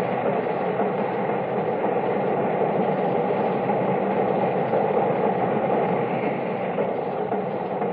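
A train running on the rails, a steady mechanical rumble and rattle without a clear beat. It comes through the narrow, muffled sound of an old film soundtrack.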